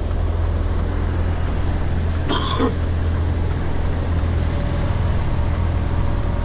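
Heavy goods vehicle's diesel engine running steadily at low revs, heard from inside the cab, with one short sharp sound about two and a half seconds in.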